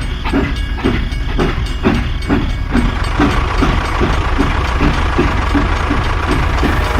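An engine chugging at a regular beat over a steady low hum, the beat quickening slightly from about two to about three a second.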